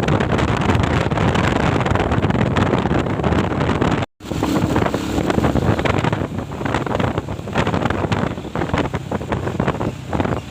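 Wind buffeting the microphone over a steady rushing noise, with a brief dropout about four seconds in and choppier gusts after it.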